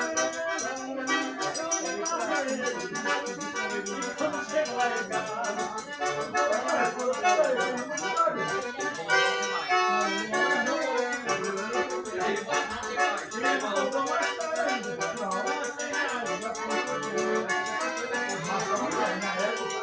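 Accordion-led forró music with a fast, steady shaker rhythm.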